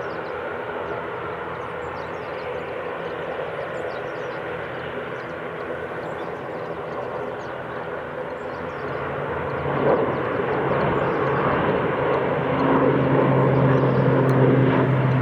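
Airliner's engines running steadily, growing louder about nine seconds in as a strong low hum joins the noise.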